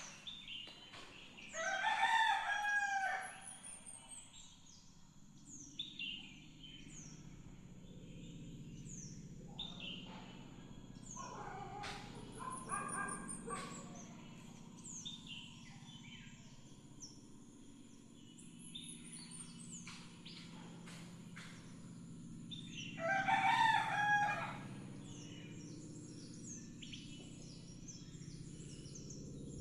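A rooster crowing three times: loudly near the start, more faintly in the middle, and loudly again near the end. Small birds keep chirping throughout.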